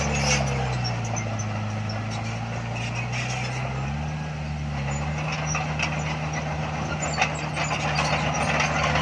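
Diesel engine of heavy earthmoving equipment running. Its pitch drops about half a second in and rises again about four seconds in as the load changes, with faint clanks over it.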